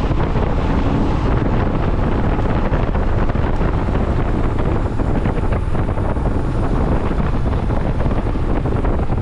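Wind buffeting the microphone of a moving motorcycle: a loud, steady rumble.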